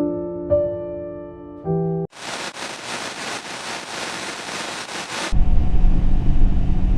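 Soft piano music for about two seconds, then a steady hiss for about three seconds, then the low, steady rumble of a Kawasaki Z400 motorcycle on the move.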